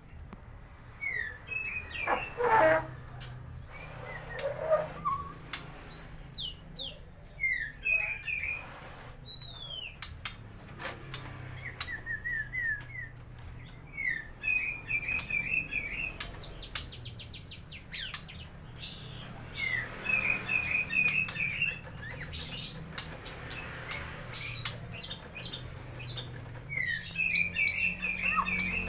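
White-rumped shama singing a varied song of short whistles, quick repeated notes and trills, its song packed with learned imitations. A steady thin high tone runs underneath.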